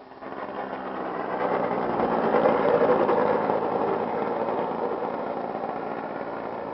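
RC aerobatic model plane's O.S. 55AX glow engine buzzing at speed as the plane flies past, growing louder to a peak about two and a half seconds in and then slowly fading.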